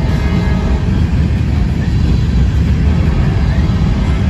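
Covered hopper cars of a freight grain train rolling past close by: a loud, steady rumble of steel wheels on the rails.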